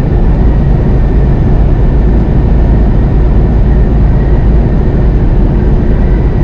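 A semi truck's in-cab drone while driving: steady, loud low rumble of the diesel engine and tyre and road noise, with a faint steady whine above it.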